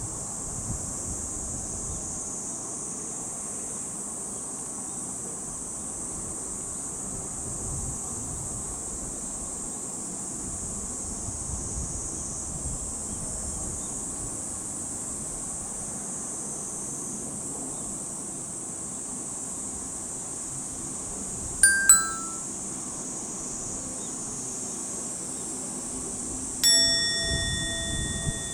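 Steady high insect drone over a faint distant rumble. About 22 seconds in, a two-note descending ding-dong chime sounds. Near the end, a single chime note rings out and slowly fades.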